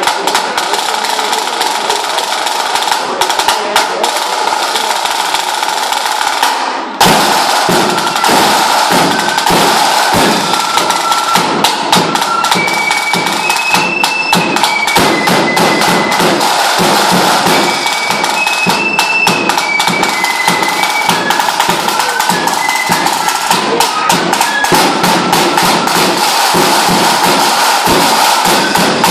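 Lambeg drum beaten with two canes in a fast, unbroken rattle of strokes. The sound changes abruptly about seven seconds in, and a high piping tune plays over the drumming after that.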